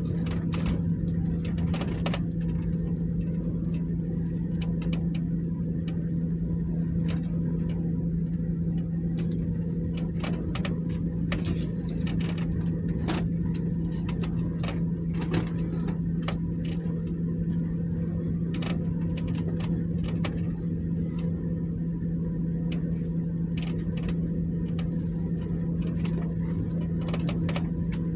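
A steady low hum with a rumble beneath it, with many short clicks and light rattles scattered throughout.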